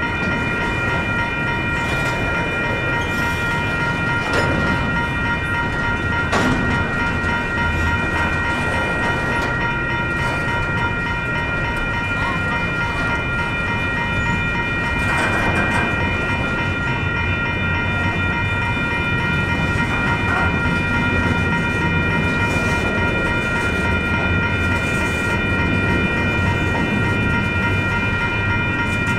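Intermodal freight train cars rolling slowly past: a steady low rumble with a few sharp knocks, and a steady high-pitched ringing tone over it.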